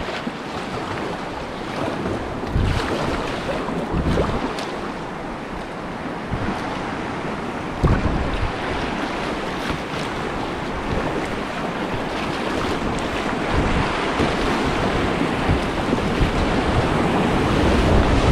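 Whitewater river rapids rushing, with water and wind buffeting the microphone. There are a few sudden thumps, and the rush grows louder toward the end.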